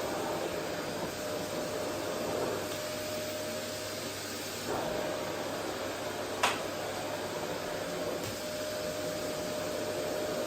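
Vacuum cleaner running steadily: an even rushing noise with a thin steady whine from the motor. One sharp click about two-thirds of the way through.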